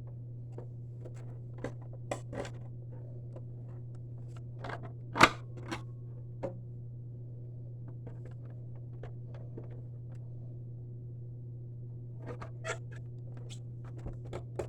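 Hands working a rubber drive belt onto the pulley of a Hoover Preferred upright vacuum: scattered clicks and scrapes of plastic and metal parts, with one sharp knock about five seconds in, over a steady low hum.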